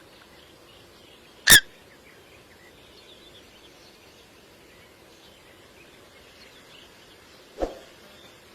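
Common coot giving two short, sharp calls: a loud one about one and a half seconds in, and a weaker, lower one near the end. Faint bird chirps sound in the background.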